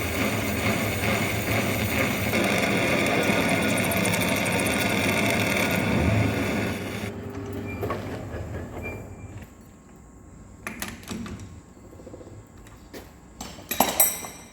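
A workshop metalworking machine runs with a dense, steady cutting noise and stops about seven seconds in. Scattered metal clanks and knocks follow, the loudest a sharp one near the end.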